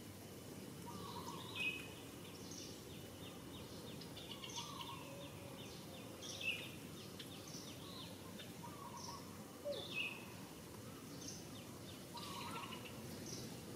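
Birds chirping in the background, short calls every second or two, the loudest ones quick downward sweeps, over a steady outdoor background hiss.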